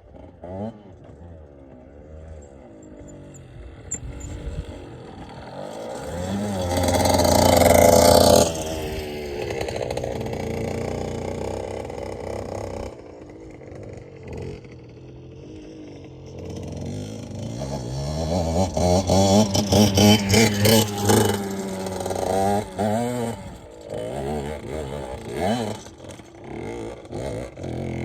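Motorcycle engine revving, its pitch rising and falling again and again, with a long loud rev about a quarter of the way in and a run of quick, sharp throttle blips a little past the middle.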